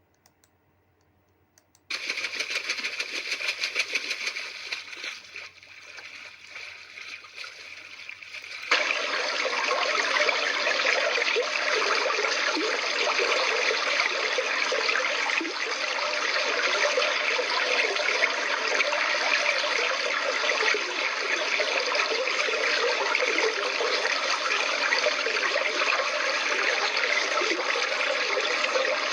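Flowing water rushing steadily, after a brief hush at the start; about nine seconds in it changes abruptly to a louder, more even rush that carries on.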